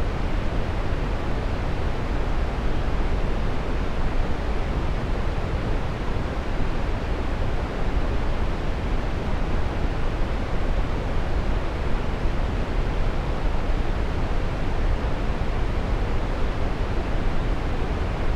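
Waterfall: a steady, even rush of falling water, heaviest in the low rumble.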